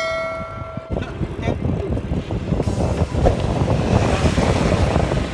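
A held musical chord cuts off abruptly about a second in. It gives way to a loud, rough rush of wind buffeting the microphone and road noise from riding a bicycle, rumbling unevenly.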